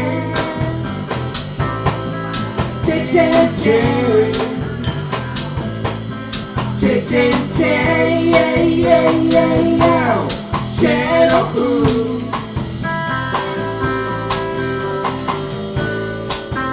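Live blues band playing: drum kit keeping a steady beat under bass and chords, with a lead line that bends and slides in pitch through the middle.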